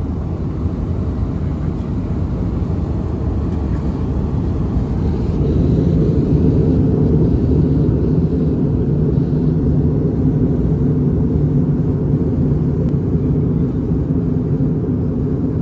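Jet airliner heard from inside the cabin: a steady low engine and airflow rumble that grows louder about five seconds in, then holds.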